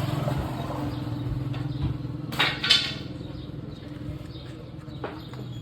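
Two light metallic clinks, about a third of a second apart, over a steady low hum.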